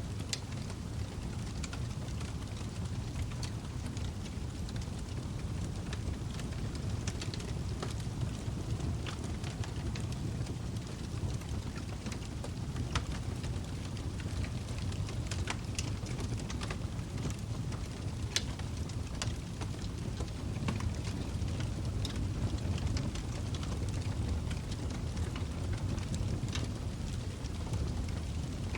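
Log fire burning in a fireplace: a steady low rush of flames with frequent sharp crackles and pops at irregular moments, a few louder snaps among them.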